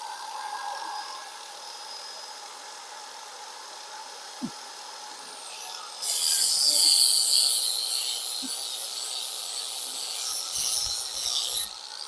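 Angle grinder with a flap wheel grinding down Duraglass body filler on a car's wheel lip. It is quieter for the first half, then bears in loudly about halfway through with a hissing, high whine, and cuts off suddenly just before the end.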